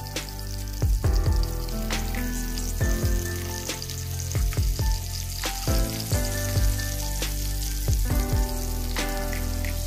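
Fish-cake patties frying in a pan of hot oil, a steady sizzle, as more spoonfuls of fish paste go into the oil. Background music with a steady beat and bass plays along.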